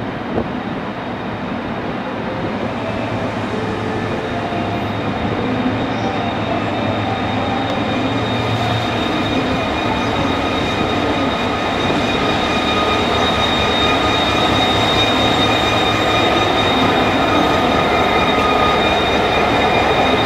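Korail diesel locomotive hauling a Saemaeul passenger train into the station, growing steadily louder as it approaches and runs past. From about six seconds in, a steady high-pitched squeal of wheels and brakes rides over the running noise as the train slows.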